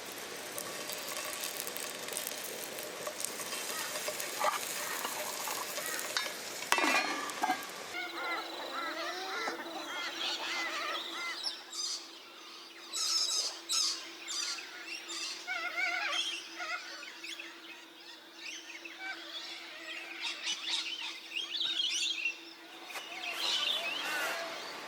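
Several birds calling and chirping at once: many short chirps and trills, densest in the second half. A steady low tone runs beneath them through most of that stretch, and there is a brief noisy rustle a little before they start.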